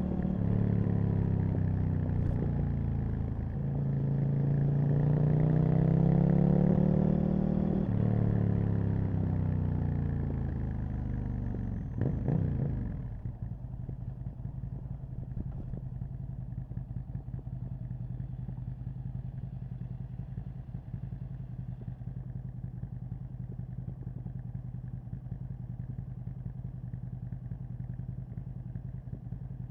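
Aprilia RSV Mille's V-twin engine under way, its revs rising and falling, with a sudden break about eight seconds in like a gear change. A little after twelve seconds the revs drop sharply and the engine settles to a steady idle for the rest.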